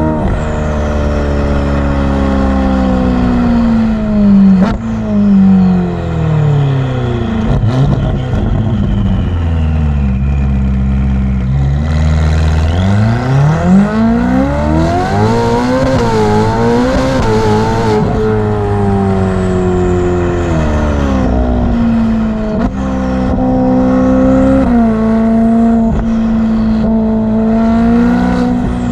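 Ferrari F8's twin-turbo V8 through a Novitec exhaust on the move. Revs fall over the first ten seconds, with a sharp crack about four and a half seconds in. It then climbs hard under acceleration for a few seconds, settles to a steady pull, and eases off near the end.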